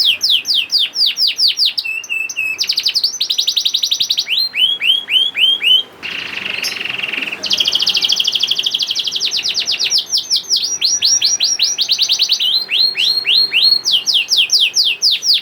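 A domestic canary singing in fast repeated series of down-slurred notes and quick rolls, changing phrase every second or two, with a short harsh buzzy phrase near the middle.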